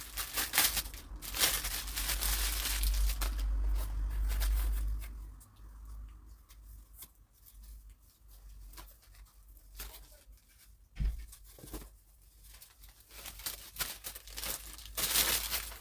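Plastic packaging being torn open and crinkled by hand while a haul item is unwrapped. The rustling is loudest for the first five seconds, drops to quieter, scattered handling sounds, and flares up again near the end.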